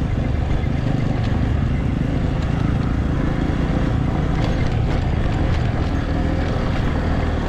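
A vehicle engine running steadily at a constant pace, a low continuous hum with no change in speed.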